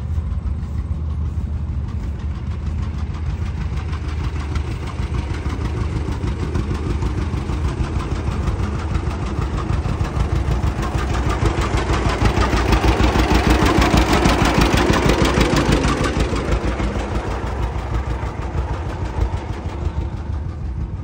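An old engine running slowly with an even firing beat. It grows louder to a peak about two-thirds of the way through, then fades somewhat.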